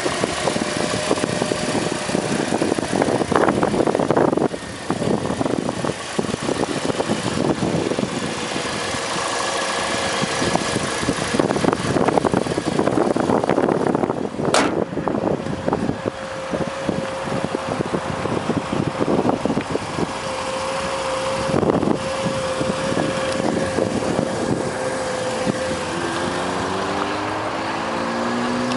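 A 2008 Toyota Corolla's 1.6-litre four-cylinder dual VVT-i engine idling steadily, with one sharp click partway through.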